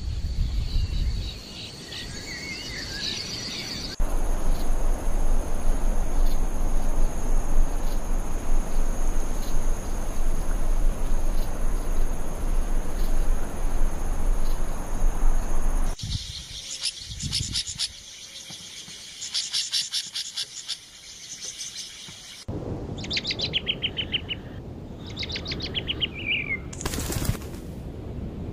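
Small birds calling in a spliced nature soundtrack: high chirps at first, then about twelve seconds of steady rushing noise with a thin high whine, then rapid high trills, and near the end several quick descending chirped trills.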